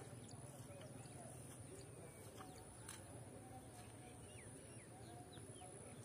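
Near silence with a few faint bird calls: short chirps that slide in pitch, mostly in the middle and second half.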